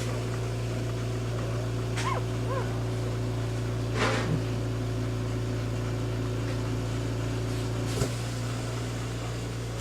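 One-day-old puppies giving a few brief, high squeaks, the loudest about four seconds in, over a steady low hum. A single knock comes near the end.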